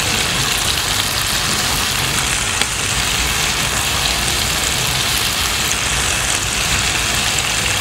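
Urad and moong dal batter fritters (dahi bhalle) deep-frying in hot oil: a steady sizzle with faint small crackles.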